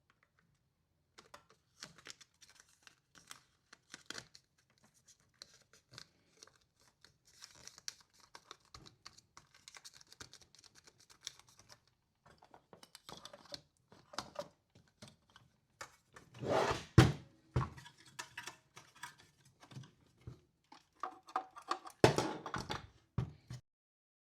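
Small handling noises of assembly work on a workbench: scattered clicks and taps with crinkling and tearing, as of tape or plastic being handled, and two louder bursts of rustling and knocking, about two-thirds of the way in and again near the end.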